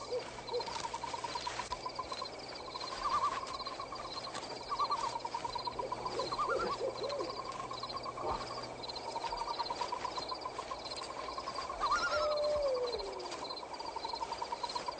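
Night-time woodland sound effects: a continuous rapid pulsing trill of frogs and insects, with an owl hooting now and then.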